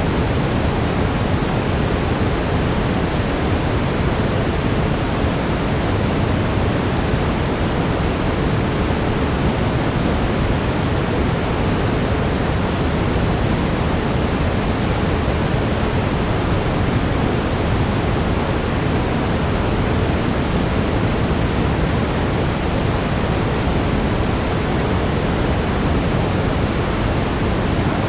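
Steady brown noise: an even, unchanging hiss weighted toward the deep end.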